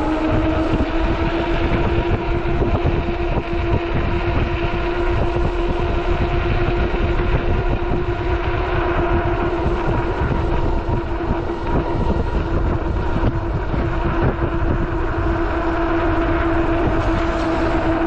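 Fat-tire e-bike's 48-volt hub motor whining at a steady pitch as the bike cruises, over a heavy rush of wind and tyre noise.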